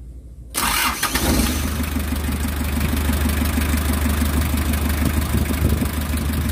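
Mazda R2 four-cylinder diesel engine, hot, cranked by its starter about half a second in, catching within about a second and then idling steadily. A hot restart that now succeeds, the hard-starting fault traced to a dirty starter.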